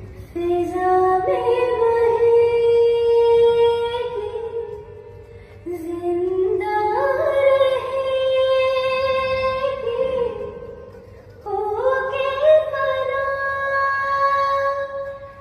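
A woman's voice singing long, held notes without speech, in three phrases, each sliding up in pitch at its start and then holding.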